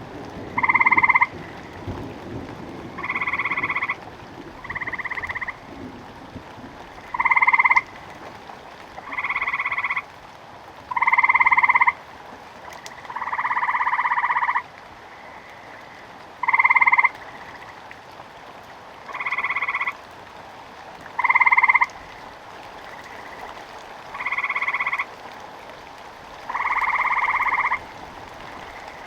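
Frogs croaking: about a dozen separate calls, each half a second to a second and a half long, coming every two to three seconds, over a faint steady hiss of rain. A low rumble of thunder dies away in the first couple of seconds.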